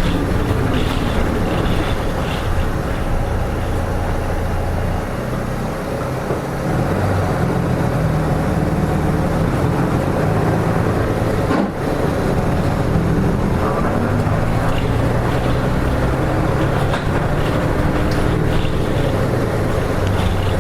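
Hino Rainbow RM (KK-RM252GSN) city bus's diesel engine running under way, heard from inside the bus, with road and cabin noise. The engine note eases and shifts about five to seven seconds in, and briefly drops out just before twelve seconds in, then picks up again.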